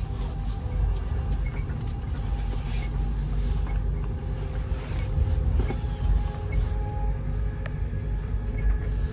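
Steady low rumble of a passenger train running, heard from inside the carriage, with a few faint steady tones above it.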